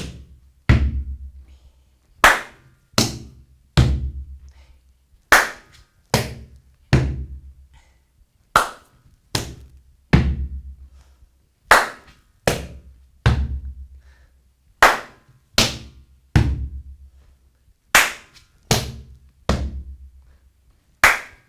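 Gumboot dance body percussion: a hand clap, a hand slap on the rubber boot and a boot stamp on the wooden platform, repeated as groups of three sharp strokes about three-quarters of a second apart, a new group about every three seconds. The stamps ring with a low boom.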